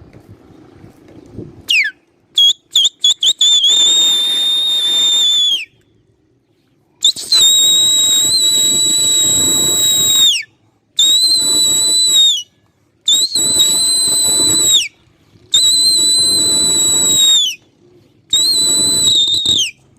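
Loud whistle blasts on one high, steady pitch: a few quick short toots, then five long blasts, each dipping in pitch as it ends, blown to keep a flock of just-flushed pigeons flying.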